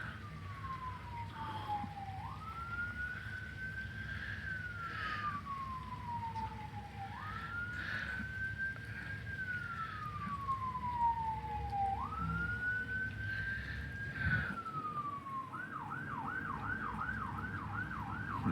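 Emergency vehicle siren in wail mode, its pitch slowly rising and falling about every five seconds, switching to a fast yelp near the end.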